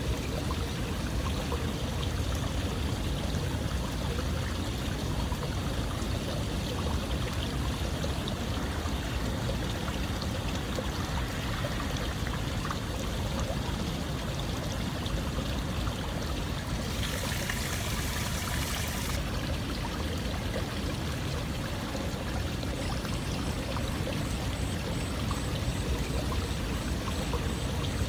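Running water in a steady, unbroken rush with a strong low rumble. A brief higher hiss joins it for about two seconds partway through.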